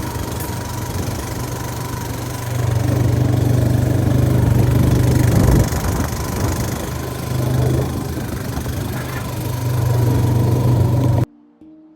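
A motor vehicle's engine running with a steady low drone that swells and eases, cut off suddenly near the end.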